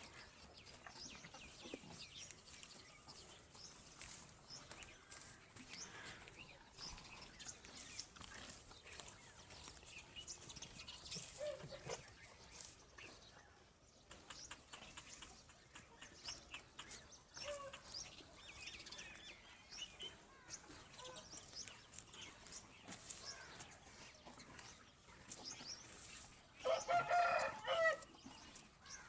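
Faint scattered animal calls and clicks, with one louder, longer pitched call of about a second and a half near the end.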